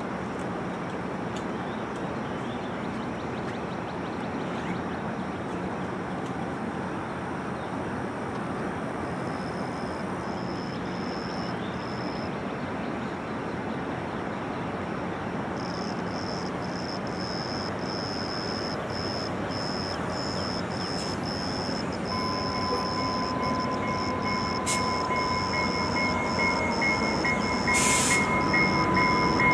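A train approaching: a steady noise of the moving train that grows louder over the last several seconds, with a steady high whine joining about two-thirds of the way through.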